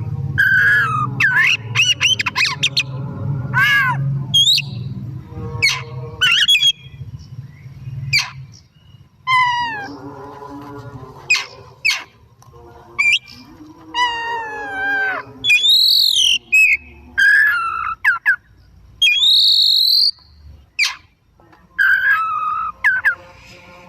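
Oriental magpie-robin (kacer) singing a loud, varied song of clear whistles, rising and falling slurred notes, quick trills and short harsh notes, in phrases broken by short pauses. A low hum sits under the first few seconds.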